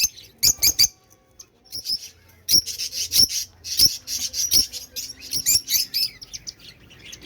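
A group of caged pet birds chirping in many short, sharp, high calls, several overlapping, with a brief lull about a second in.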